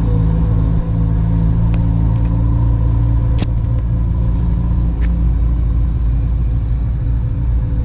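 Motor vehicle engine running at a steady speed, a low continuous drone, with a sharp click about three and a half seconds in.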